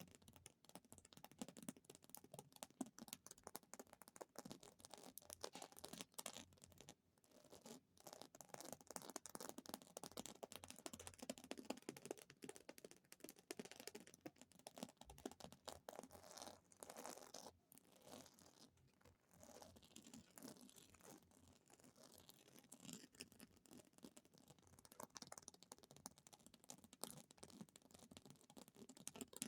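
Quiet, very fast tapping by fingers on an object: a dense, continuous run of small taps and scratches, with a couple of brief pauses.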